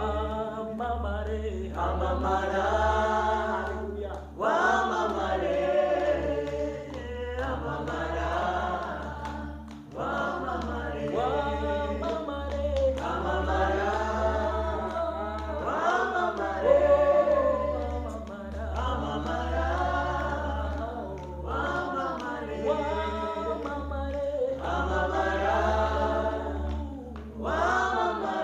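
A choir or congregation singing a gospel song in phrases a few seconds long, over a steady low bass drone.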